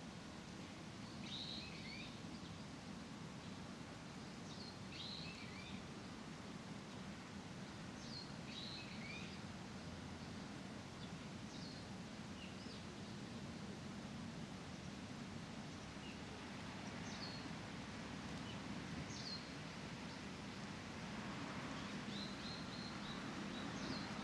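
Small birds giving short, high chirps every few seconds, each sweeping downward in pitch, over a steady low rumble of distant traffic. Near the end a soft rushing rustle, like leaves in the breeze, swells up under the calls.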